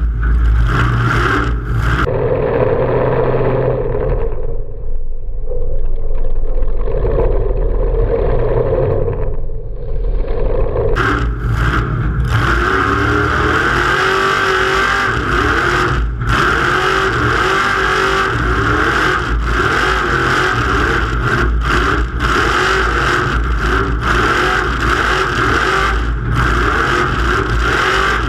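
Race truck engine running hard at high revs, its pitch rising and falling again and again, over a steady rushing noise and a low rumble. The sound is muffled for several seconds early on.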